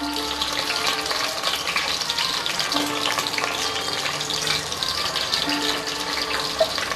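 Jackfruit pieces frying in hot mustard oil in a metal pot: a steady dense sizzle with fine crackles throughout.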